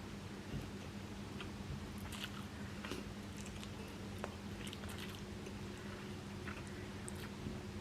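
A person chewing soft idiyappam rice noodles and vegetable korma close to the microphone, with scattered small wet clicks and smacks of the mouth. A steady low hum runs underneath.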